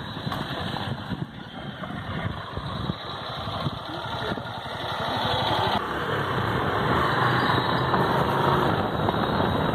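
A vehicle's engine and road noise while driving, growing louder about halfway through.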